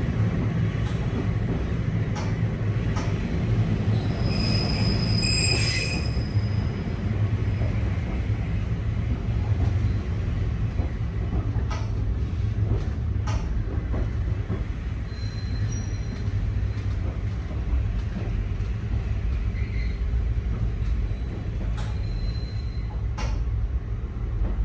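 Running noise inside a Nankai 2200-series train car: a steady low rumble with scattered clicks from the rails. A high-pitched wheel squeal rises about four to six seconds in, and shorter, fainter squeals come again about halfway through and near the end.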